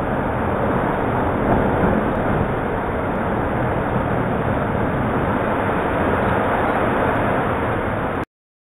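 Heavy ocean surf: a loud, steady rumble of breaking waves, cutting off suddenly near the end.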